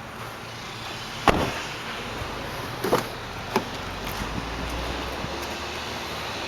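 Clunks from the car's interior fittings being handled: one sharp, loud clunk about a second in, then two lighter knocks, over a steady background hum.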